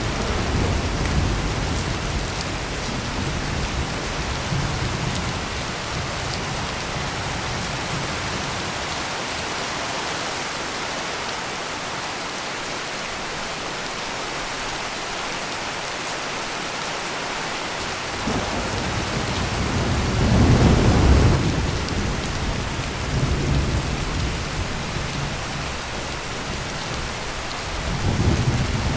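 Heavy rain pouring steadily, with thunder rumbling under it: a low rumble at the start that fades away, a louder roll of thunder about two-thirds of the way through, and another rumble near the end.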